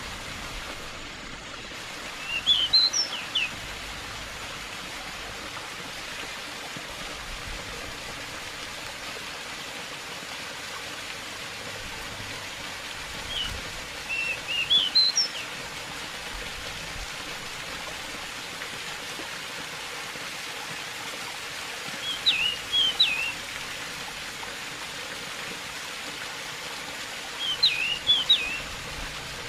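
Steady rush of running water, with a pied bushchat (decu) singing four short chirpy song phrases over it, spaced several seconds apart.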